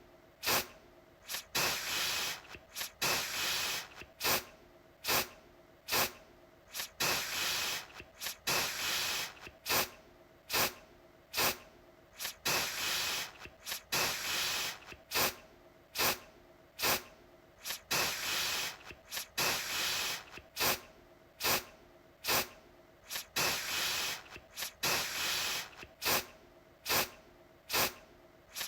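Aerosol deodorant can spraying in repeated hissing bursts, mostly short puffs with some longer sprays of about a second, one to two a second.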